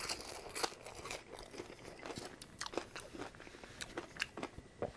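Close-miked chewing of a mouthful of french fries: wet mouth sounds with many small, irregular crunchy clicks.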